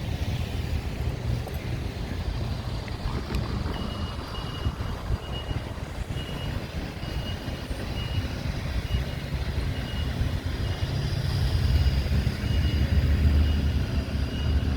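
Street traffic rumble with wind on the microphone, growing louder near the end as a vehicle passes. From about four seconds in, a short high-pitched beep repeats steadily.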